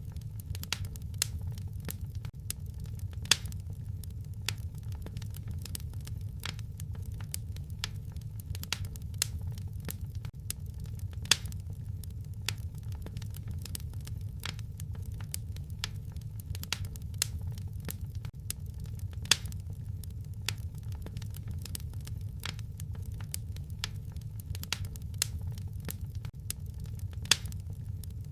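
Wood fire burning in a fireplace: a steady low rumble with frequent small crackles and four louder pops spaced evenly through the stretch.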